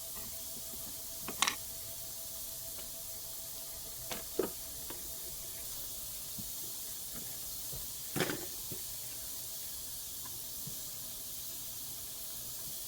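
Steady hiss with a faint steady hum underneath, broken by a few light clicks and knocks: one about a second and a half in, a pair around four seconds, and one about eight seconds in.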